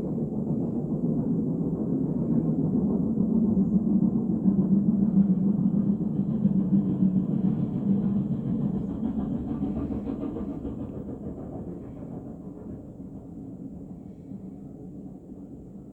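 BR Standard Class 4 4-6-0 steam locomotive 75014 working its train up a gradient: a heavy rumble of locomotive and wheels on rail that swells to its loudest about five seconds in, then fades steadily as the train draws away.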